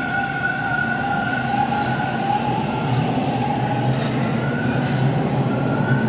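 Subway train running in the station, a steady rumble with a high, slightly wavering whine, and a brief hiss about three seconds in.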